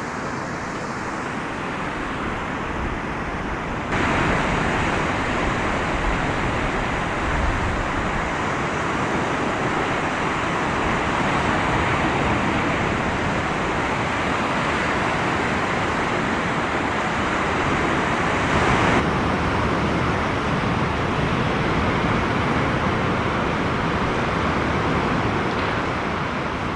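Steady rushing of rough sea surf on the shore. It steps louder about four seconds in and eases back after about nineteen seconds.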